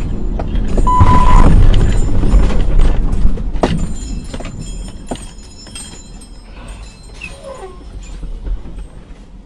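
Vehicle and road noise, loudest for the first three seconds, with a short high beep about a second in and a couple of sharp knocks, then dying down.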